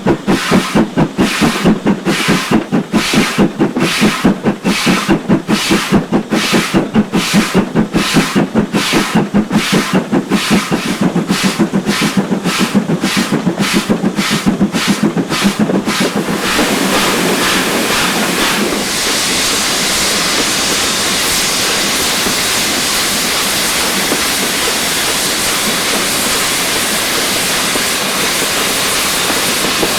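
Steam locomotive exhaust beats from 2-8-0 tank engine No. 4277 hauling its train, starting at about two beats a second and quickening as it gathers speed. About halfway through the beats blend into a steady rush of running noise and hiss.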